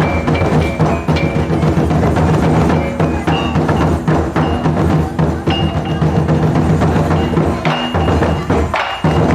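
Taiko drums played in a fast, dense rhythm of strikes, with short high ringing tones over them. The playing stops just before the end.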